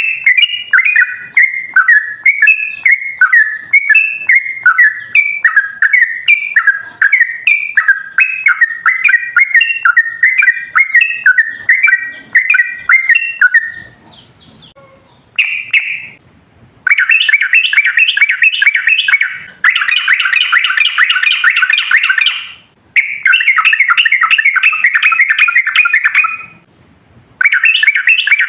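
Yellow-vented bulbul (trucukan) singing loudly. First comes a long run of quick, bubbly chattering notes. After a short pause about halfway through, it gives a series of long, fast rolling trills a few seconds each, separated by brief breaks.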